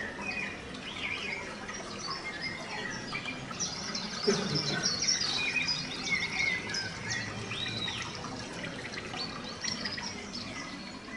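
Several small birds chirping and twittering in quick, short calls over a steady background noise.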